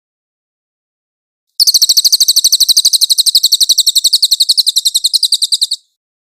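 A songbird's fast rolling trill of sharp, high notes, about ten a second, starting about one and a half seconds in and running for about four seconds before stopping abruptly. This is 'ngeroll tembak' masteran song: a rapid-fire rolling song used to train cage birds.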